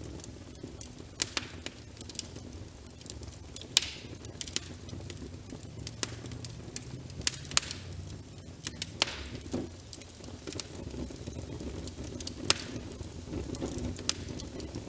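Wood fire crackling in a fireplace, with irregular sharp pops, over a steady patter of rain.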